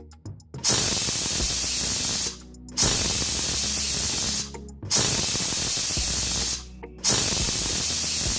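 Pressure cooker whistling four times, each a loud hiss of escaping steam lasting under two seconds, with short breaks between. These are the four whistles that mark the mutton as cooked under pressure.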